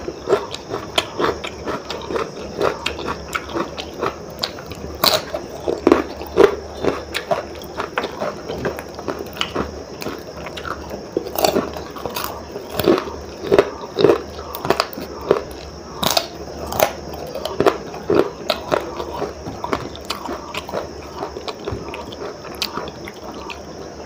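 Close-up eating sounds of khichdi rice with crunchy fried papad, eaten by hand: chewing with many short, irregular crunches and wet mouth clicks, a few each second.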